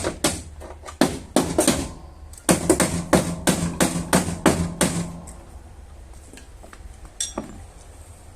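Rapid hammer taps on a car's sheet-metal body panel during dent repair, about five a second, in two runs. A pause comes about two seconds in, and after about five seconds only a few scattered taps remain.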